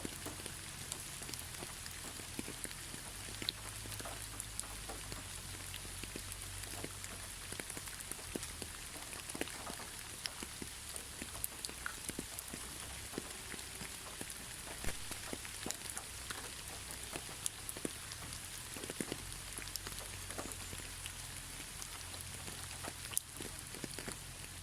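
Steady gentle rain, a constant hiss with many individual drops ticking sharply against it, and no thunder.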